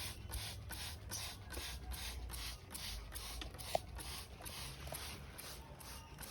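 Hand spray bottle squirted over and over, an even run of hissing sprays about three a second.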